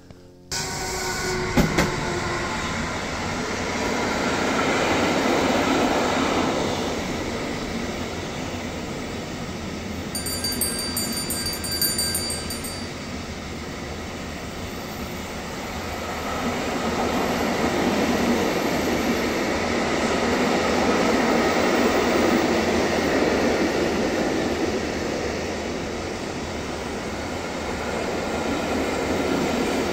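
Train running on the rails: a steady rumble and rush of wheels on track that starts abruptly, swells and eases, with a brief high wheel squeal about ten seconds in.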